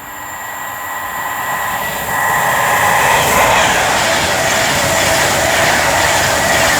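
Class 390 Pendolino electric train approaching and running through the station. A rush of wheels on rail grows louder over the first two seconds, then holds loud and steady, with a few thin steady whining tones.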